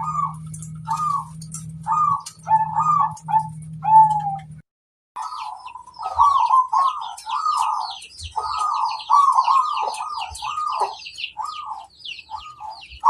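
Zebra doves (perkutut) cooing in a run of short, repeated arched notes. From about five seconds in, small birds chirp rapidly in high notes behind them. A low steady hum lies under the first few seconds, and the sound drops out briefly just before the chirping starts.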